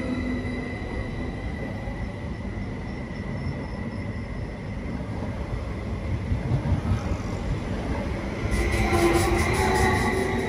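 A train running on the rails with a steady low rumble. A thin, high wheel squeal fades away in the first couple of seconds. Near the end come a quick run of clicks and a whine as the train rolls on.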